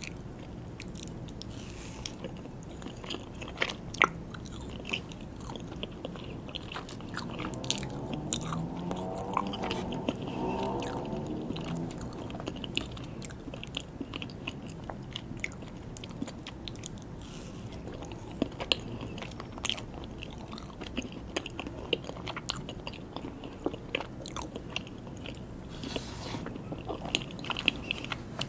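Close-up chewing and biting of soft mini cakes and buttercream chocolate cake, with many small wet mouth clicks. A short pitched hum is heard about a third of the way in.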